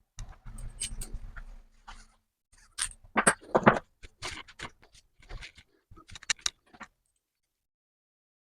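Metal tools and parts clinking and knocking as they are handled at a workbench, an irregular run of sharp clinks with a few louder knocks a few seconds in.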